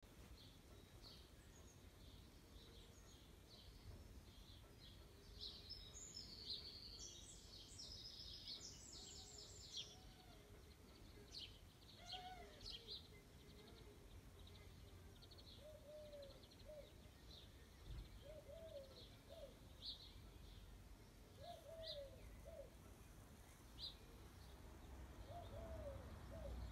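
Faint birdsong: a burst of rapid high chirping song a few seconds in, scattered single high chirps throughout, and a lower repeated call about every two seconds in the second half.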